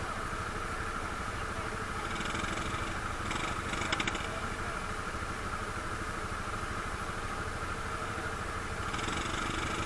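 ATV engine running steadily at an even, low pace, with a faint rapid ticking about two seconds in and again near the end.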